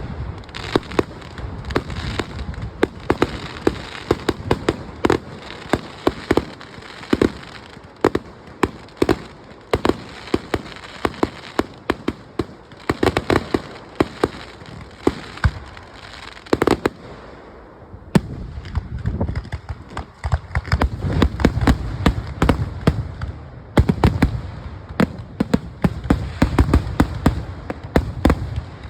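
Fireworks display: a rapid string of sharp bangs and pops, thickening into a dense, continuous rumble of overlapping bursts over the last ten seconds.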